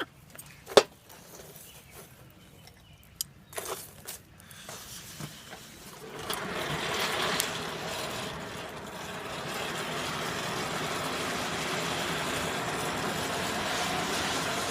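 A few sharp metal clinks and knocks, the loudest about a second in, then from about six seconds a steady rushing noise from the running forge that holds to the end.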